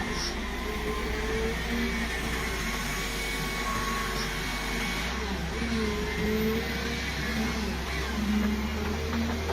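Heavy machinery running steadily, a continuous engine and mechanical noise with a wavering hum.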